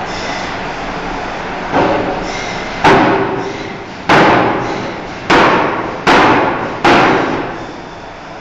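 Forging hammer blows striking a steel bar: six heavy strikes, roughly one a second with uneven spacing, each ringing and fading away. The first is softer than the rest. A steady machinery drone runs beneath them.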